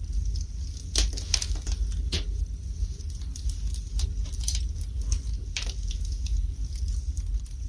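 Wood fire burning in a fireplace, with irregular crackles and sharp pops from the logs over a low, steady rumble.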